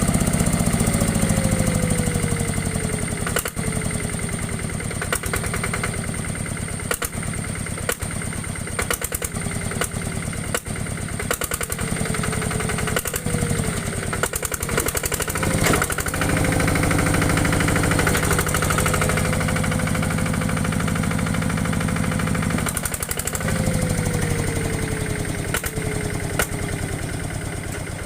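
Small diesel engine running with a steady knocking clatter, speeding up and then slowing back down three times: at the start, about halfway through, and again near the end.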